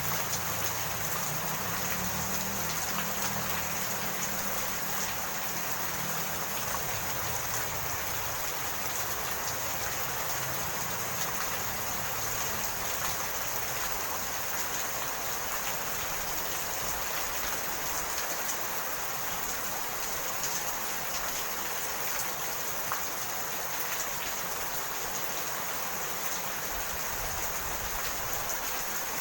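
Steady rain falling, an even hiss with scattered faint drop ticks. A low rumble underneath fades out over the first several seconds.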